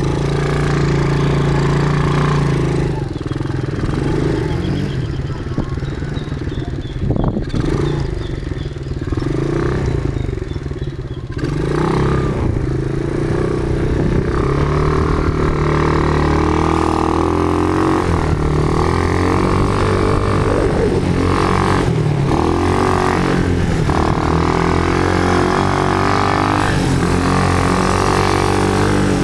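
Quad bike engines running, their pitch stepping up and down as they ride, somewhat quieter for a stretch early on before rising again near the middle.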